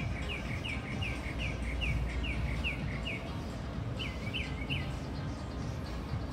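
A bird calling in a run of short, evenly spaced chirps, about two or three a second. About four seconds in comes a quicker group of three or four, over a steady low rumble of outdoor background noise.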